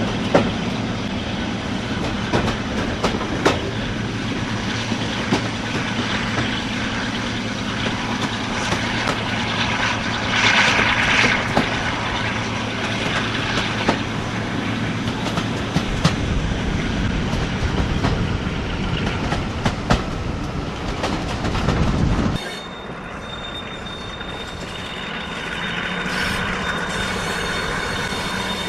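Heritage train running on the rails, with steady wheel and track noise and clickety-clack. About three quarters of the way through, the sound drops suddenly to a quieter, thinner level.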